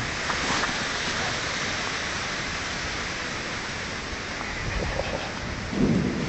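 Heavy rain falling steadily during a thunderstorm, with a louder low rumble near the end.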